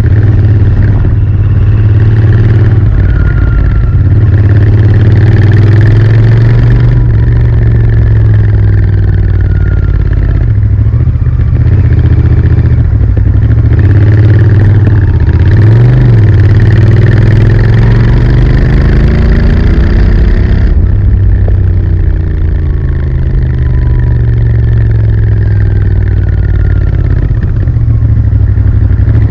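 Royal Enfield Interceptor 650's 648 cc parallel-twin running through its stock exhaust, the revs rising and falling again and again.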